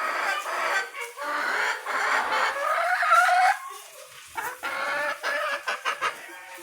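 Chickens clucking and calling, several overlapping calls with rising glides in pitch for about three and a half seconds, then a brief lull and a run of shorter calls.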